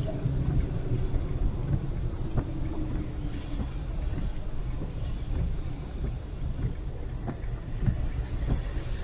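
A car driving on a highway in rain: a steady low rumble of road and engine noise, with scattered short ticks.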